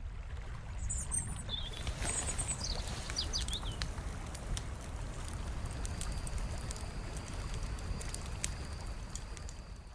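Outdoor woodland ambience: birds chirping in short high calls during the first few seconds, over a steady low rumble, with a thin steady high tone from about six seconds in.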